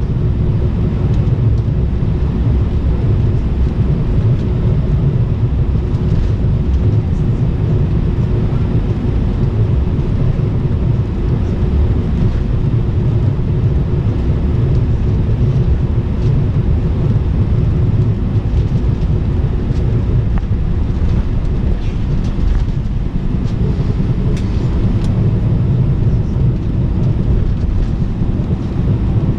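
Airbus A319 cabin noise: a steady, loud rumble of the jet engines and airflow, with a steady hum and faint light rattles.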